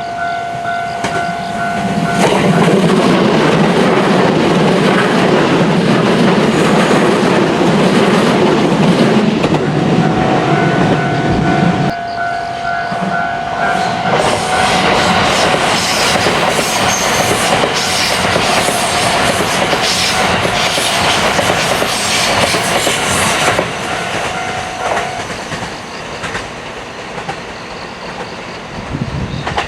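A train passing on the rails, its wheels clattering on the track. The noise comes in suddenly and loud about two seconds in, turns brighter and higher-pitched partway through, then fades near the end. A steady tone sounds under it at the start and again through the middle.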